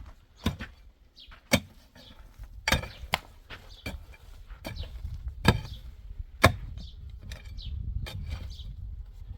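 A series of sharp, separate knocks, roughly one a second at irregular spacing, with a low rumble building from about halfway through.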